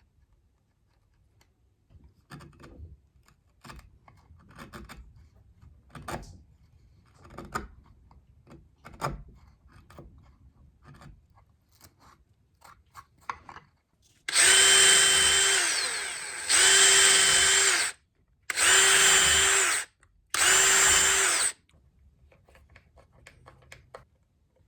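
Light, scattered taps and knocks through the first half, then a power drill running in four short bursts of one to two seconds each, its motor note steady and dropping as each burst stops.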